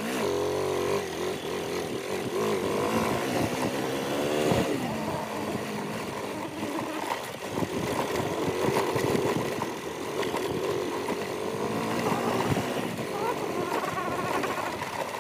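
Motorcycle engine running while riding, its pitch rising and falling with the throttle, over a steady rush of noise.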